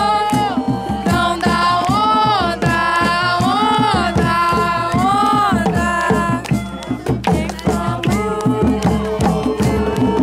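Hand drums beating a steady rhythm under a singing voice that holds long, chant-like notes, sliding up and down between them; a little past halfway the long sung notes give way and the drumming carries on.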